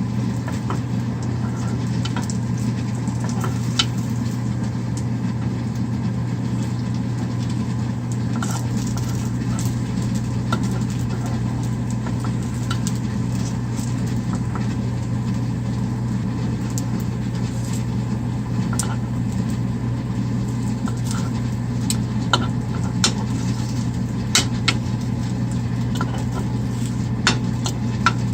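A steady low hum, like a running motor or fan, with scattered light clicks and taps that come more often in the second half.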